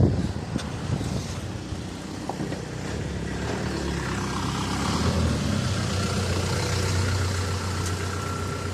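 Army truck driving past, its engine rumble building over a few seconds and easing slightly near the end.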